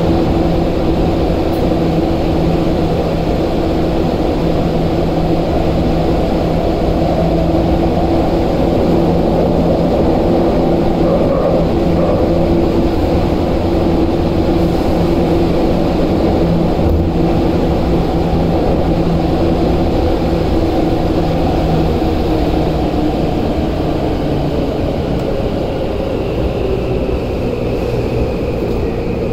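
Tokyu 8500 series electric commuter train heard from inside the car while running through a subway tunnel: a loud, steady rumble of wheels on rail with a steady motor hum. In the last few seconds the hum fades, the sound eases a little and a faint high whine slides slowly downward.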